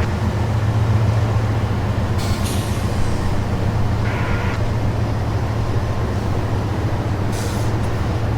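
Freight train rolling past: a steady low diesel rumble, with three short hissing bursts about two, four and seven and a half seconds in.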